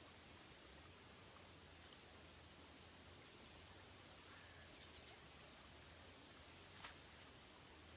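Near silence: two faint steady high-pitched tones, and a single short click near the end.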